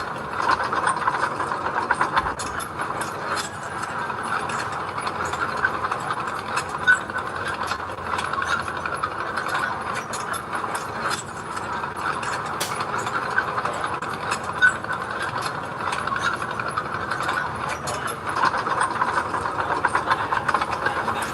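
Diesel engine of a road-work machine running steadily, with frequent sharp metallic clanks and rattles.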